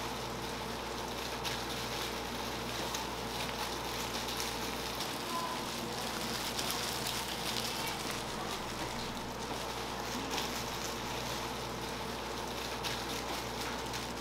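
Food frying on a hot pan, a steady sizzle full of small crackles, with a steady hum underneath.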